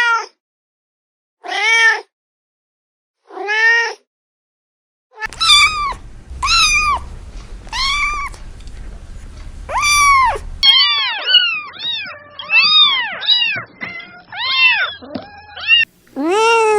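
Kittens meowing: a series of short, high meows that rise and fall in pitch. Three come about two seconds apart, then five in a row, then a quicker run of about two a second in the last five seconds.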